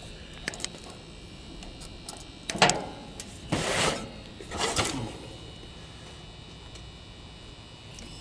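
Hands and tools working on an air-conditioner condenser: scattered clicks, a sharp knock about two and a half seconds in, then a short scraping rustle and another a second later.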